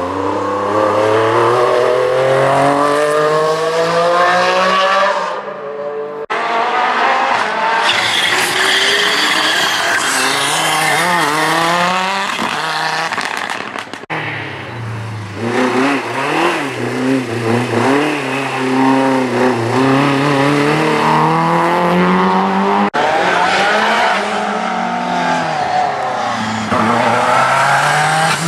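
Group B rally car engines at full throttle, revving up through the gears again and again and lifting off, with the sound breaking off abruptly a few times as one run gives way to the next.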